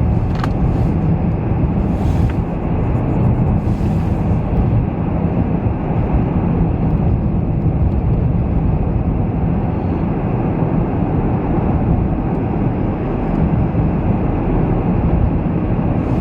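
Steady low rumble of a car being driven, heard from inside the cabin: tyre and engine noise on a snowy road. A few faint ticks sound in the first few seconds.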